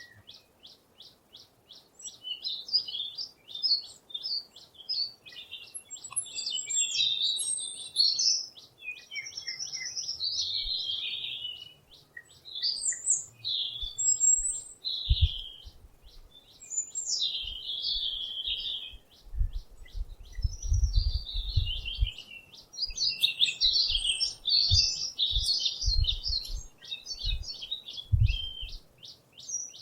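Small songbirds chirping and twittering, opening with a fast, even trill. Dull low thuds come in during the second half.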